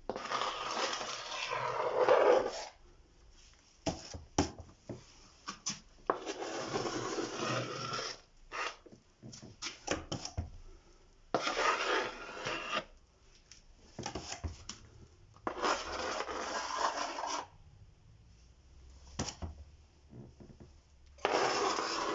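Spatula scraping excess Rotband gypsum plaster off the wall along a plastering rule, in five long strokes with short knocks and taps between them.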